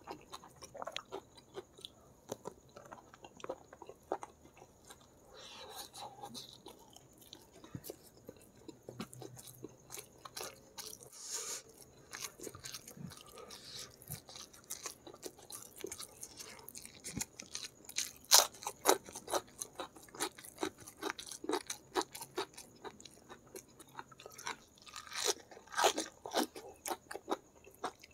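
Close-miked chewing of a meal of rice, spicy chicken feet and raw vegetables, with runs of loud crunching bites a little past halfway and again near the end.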